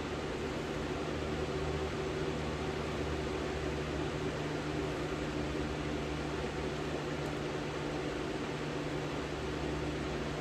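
Steady machine hum over an even hiss, with no change in pitch or level.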